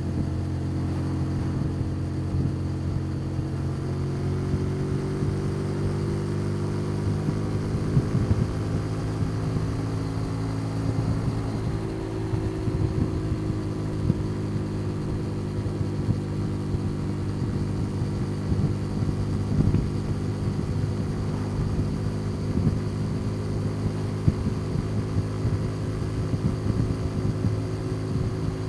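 Custom motorcycle's engine running at a steady cruise, a low throbbing hum whose pitch shifts a little about halfway through, as with a change in throttle or gear.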